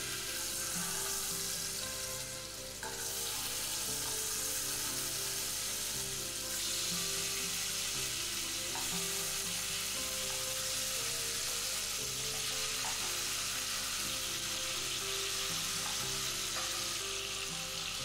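Marinated chicken pieces sizzling as they fry in hot oil in a pot, the sizzle swelling about three seconds in and again around six seconds as more pieces go in, with a spoon moving them about.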